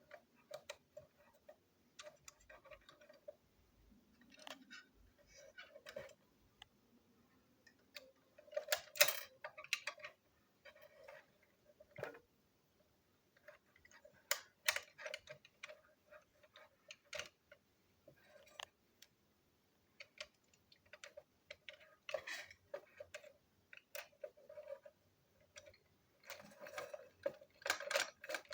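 Plastic toy train parts clicking and clacking irregularly as they are handled, taken apart and snapped back together, with a busier cluster of clatter near the end.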